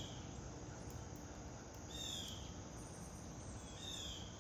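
A songbird singing a short phrase of slurred notes about every two seconds, three times, over steady outdoor background noise.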